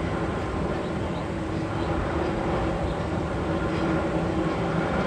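A steady mechanical drone with low held hums under a rushing noise, one of the Magnum XL-200 tunnel's sound effects played over loudspeakers.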